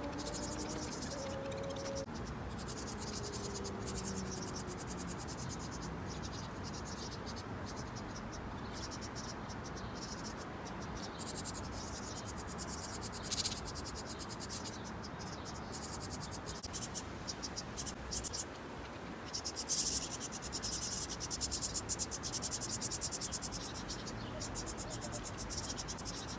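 Insects trilling in fast, high-pitched pulses, louder in stretches near the end, over a steady background hiss.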